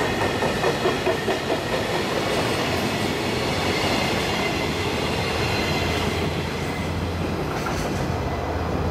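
Koki container flatcars of a freight train rolling past, wheels clattering over rail joints in a quick rhythm during the first couple of seconds. This gives way to a steady rumble as the last wagon goes by and the train moves away.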